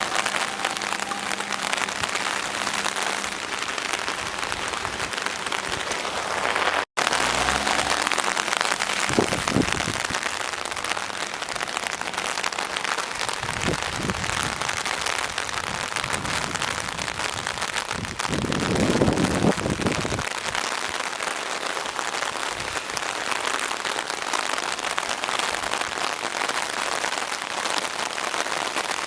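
Heavy typhoon rain pouring down in a dense, steady hiss, with a few louder, deeper rushes.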